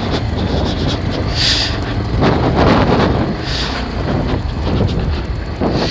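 Bajaj Pulsar 220F's single-cylinder engine running steadily on the move, with wind noise over the microphone and a couple of brief hissy gusts.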